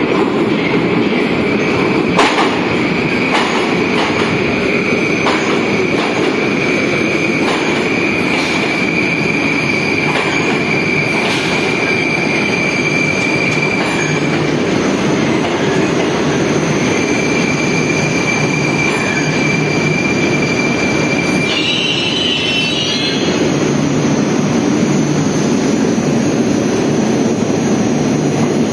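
Moscow metro train running through a tunnel, heard from inside a carriage: a loud, steady rumble with a thin, high wheel squeal that drops out around the middle. Irregular clacks over rail joints come in the first dozen seconds.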